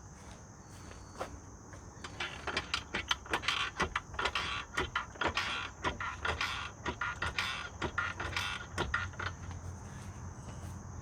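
ATV roller chain clattering as it is pulled by hand around the sprockets: a fast, irregular run of metallic clicks and rattles lasting several seconds, then easing off. A steady high insect drone runs behind it.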